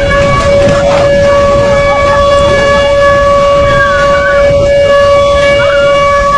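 Outdoor warning siren sounding one long wail, held at a steady pitch, over a background of steady noise.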